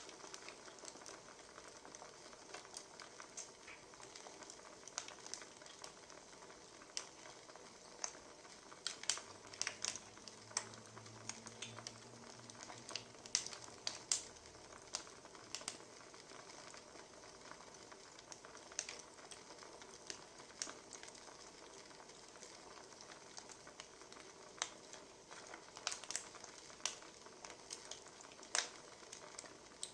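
Wood fire crackling: a soft steady hiss broken by irregular sharp pops and snaps of burning firewood, which come thicker in a few clusters.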